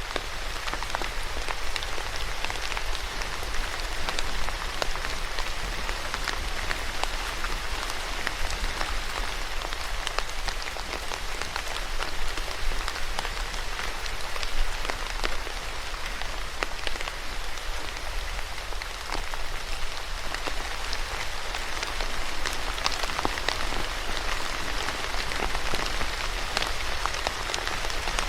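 Steady rain falling on a surface, with many individual drops pattering.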